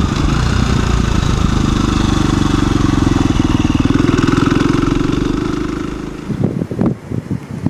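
2017 KTM 350 EXC-F's single-cylinder four-stroke engine running at a steady, easy cruising pace, with wind on the microphone. The engine fades out about six seconds in, leaving a few short gusts of wind buffeting the microphone.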